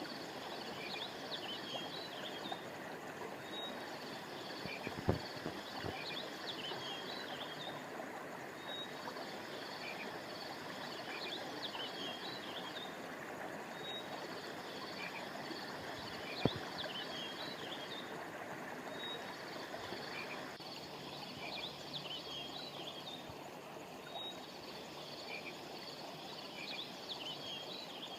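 A river or stream flowing steadily, with clusters of high chirping calls that repeat about every five seconds. Two sharp clicks come through, about five seconds in and again near the middle.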